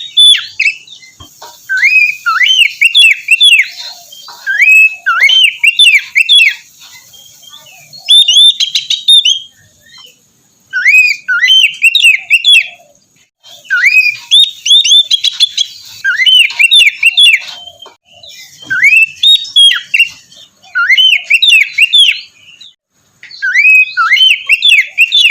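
Oriental magpie-robin (kacer) singing loudly: repeated phrases of quick upslurred whistles, each phrase a second or two long, broken by short pauses.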